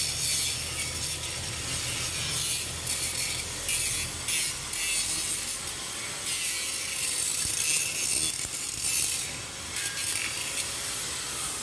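MIG welding arc on steel pipe, a dense crackling hiss that runs in several stretches broken by short pauses.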